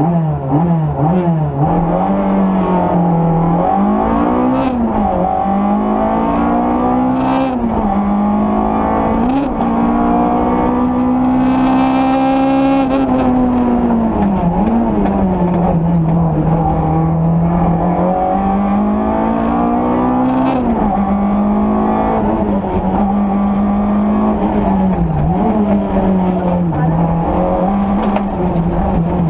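Peugeot 205 Rallye rally car's four-cylinder engine heard from inside the cabin, driven hard through the gears. The pitch climbs and then drops sharply at each gear change, several times, and is held high for a couple of seconds near the middle.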